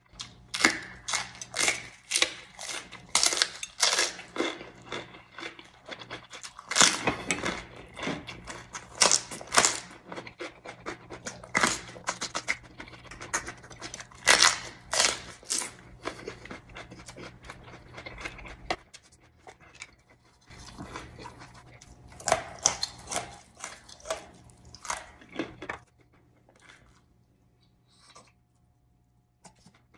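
Close-miked eating sounds: a person chewing and crunching food with many crisp, sharp crunches, thinning out near the end.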